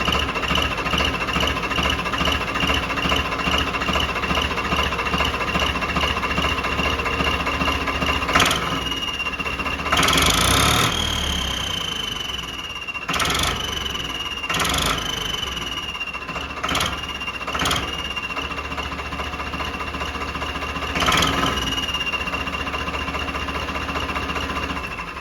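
Tractor diesel engine running with an add-on turbo whistle on it: a steady high whistle over the engine's clatter. The engine is revved about seven times, and with each rev the whistle rises in pitch and then slowly glides back down.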